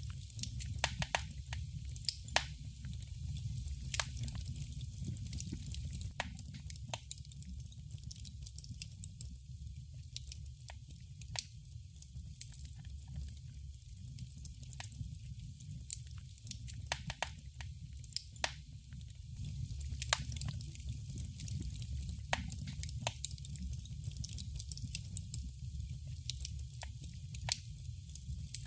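Wood fire crackling in a fireplace: irregular sharp pops and snaps, a few every second, over a steady low rumble of the flames.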